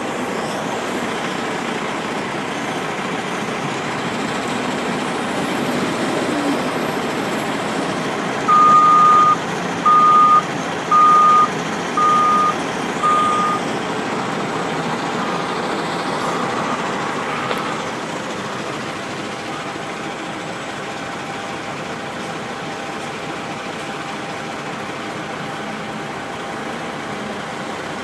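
Heavy truck engine running steadily, with a reversing alarm beeping five times, about once a second, partway through, then fainter beeps for a few seconds more.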